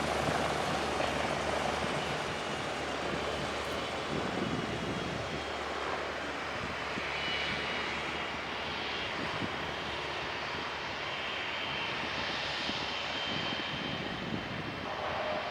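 Eurocopter EC145 helicopter's engines and rotor running steadily, with a faint high whine coming in about halfway through.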